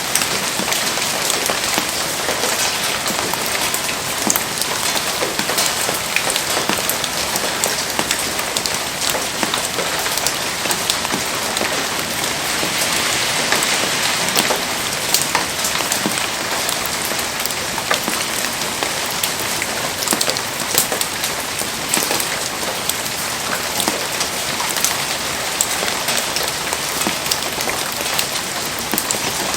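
Heavy rain falling steadily, a dense even hiss dotted with many sharp individual drop impacts.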